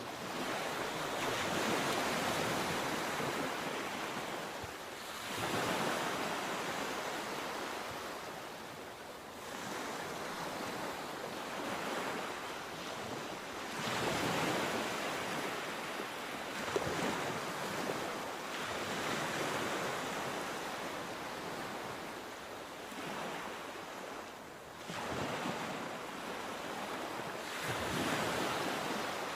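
Sea waves breaking and washing up the shore, the surge rising and falling every four to five seconds.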